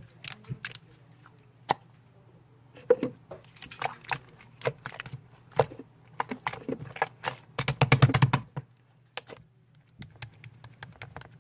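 Slime being squished and poked by hand, giving irregular crisp clicks and pops, with a quick run of many pops about two-thirds of the way through.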